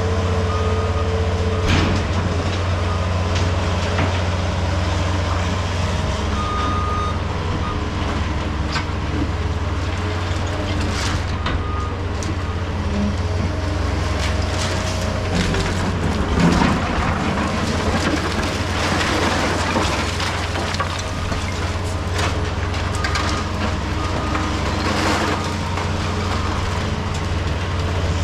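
Heavy diesel demolition equipment running steadily, with intermittent crunching and clanking of broken concrete being handled; the sharpest bang comes a little past halfway.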